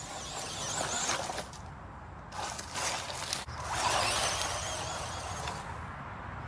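Small electric 4WD RC truck running over rough ground: three bursts of high motor whine mixed with rough tyre noise.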